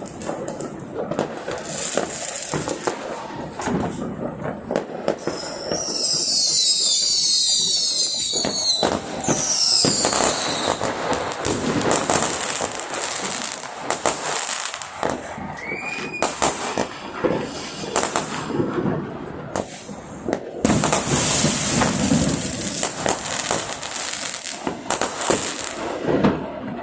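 Fireworks and firecrackers going off one after another with dense crackling, and two falling whistles about six and nine seconds in.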